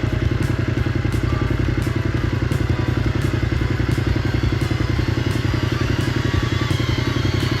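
Triumph Scrambler motorcycle engine running steadily under way, with light clattering knocks coming about every three-quarters of a second.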